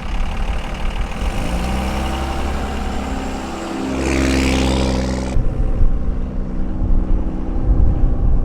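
Truck engine running as the truck drives off, climbing in pitch as it accelerates two to four seconds in, then running on steadily.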